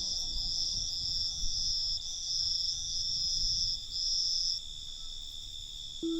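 Crickets trilling: one steady high trill, and over it a second, higher trill in long pulses that stops about three-quarters of the way through. Soft ambient music fades out at the start, and a low held note comes in just at the end.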